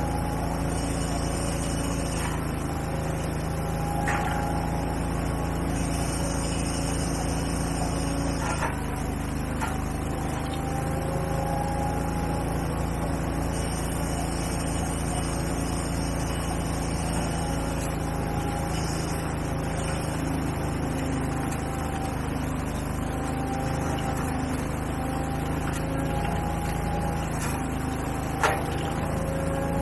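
Large gas-engine leaf-cleanup machinery running steadily, with a whine that fades in and out and a few sharp knocks, the loudest near the end.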